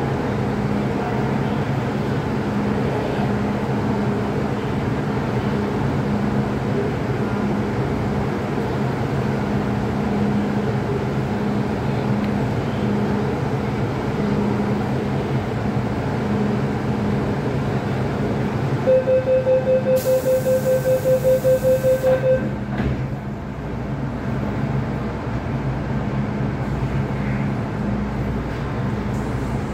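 MTR M-Train running, a steady rumble with a low motor hum. About two-thirds of the way in, a rapid series of about a dozen beeps sounds for some three seconds over a high hiss, then the running noise briefly dips.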